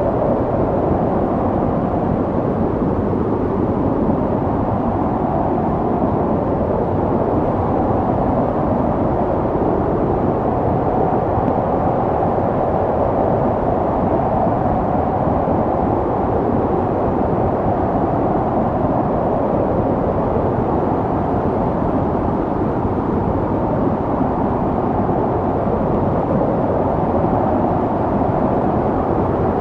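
Snowstorm wind blowing steadily, a low rushing noise with slow, wavering swells.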